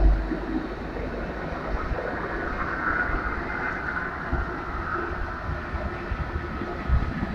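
Union Pacific freight train rolling past: a steady rail rumble that eases just after the start, with rhythmic low thumps coming back near the end.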